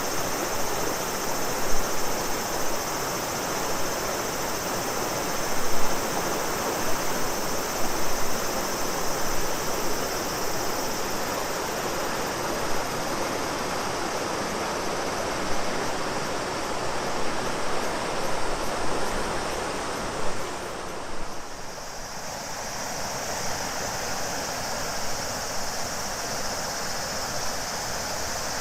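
Shimanto River water flowing and splashing, with a steady high drone of cicadas over it. About 21 s in the sound briefly dips. After that the water is quieter and the cicada drone stands out more.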